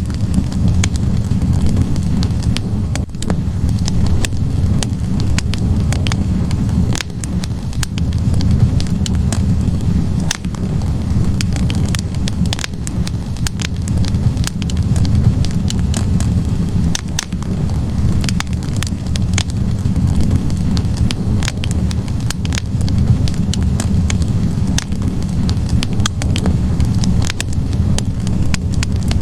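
Wood fire of burning logs in a fireplace: a steady low rumble of flames with frequent sharp, irregular crackles and pops.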